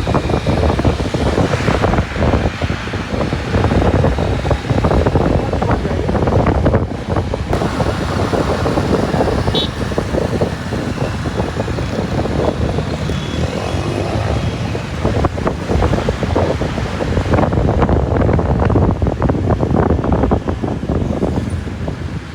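Wind buffeting the microphone on a moving motorbike, over the bike's engine and road traffic, with continuous, uneven crackling gusts.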